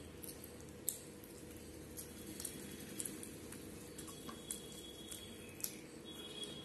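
Close-miked eating sounds: scattered wet clicks and smacks of a person chewing rice and curry eaten by hand. A steady low hum runs underneath.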